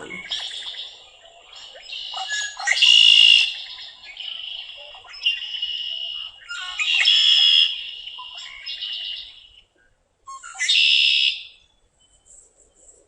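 Recorded song of a male red-winged blackbird: repeated harsh, buzzy conk-la-ree phrases, the loudest three about 3, 7 and 11 seconds in, with softer chips and calls between.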